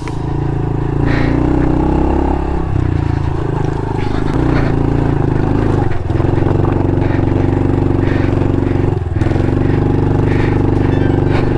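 Honda CRF110 pit bike's small single-cylinder four-stroke engine running under load at steady revs while riding a trail. The engine note drops briefly twice, about six and nine seconds in, then picks back up.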